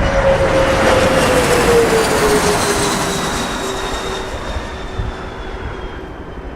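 Bombardier CRJ100LR regional jet passing on its landing approach, its rear-mounted GE CF34 turbofans whining. About one and a half seconds in, the engine tone drops in pitch as the jet goes by, and the sound then slowly fades.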